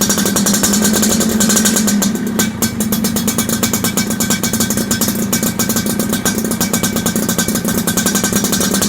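Suzuki Satria motorcycle engine running steadily through an Andyspeed aftermarket exhaust, a fast even train of exhaust pulses.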